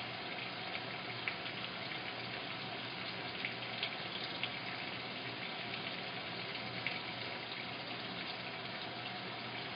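Washing machine filling: a steady rush of water running in, with a few brief splashy ticks.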